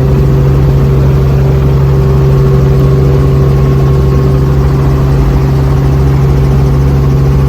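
Helicopter running close by, a really loud, steady drone with an unchanging hum.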